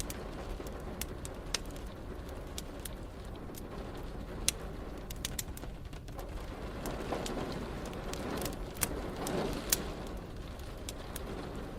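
Wood fire crackling with scattered sharp pops, over a steady hiss and low rumble of rain.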